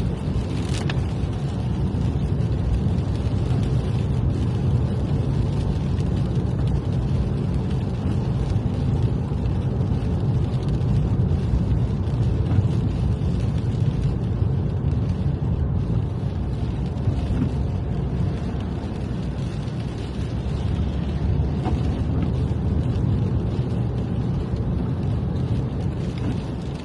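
Steady road noise of a car driving, heard from inside the cabin: low engine and tyre rumble on a wet road.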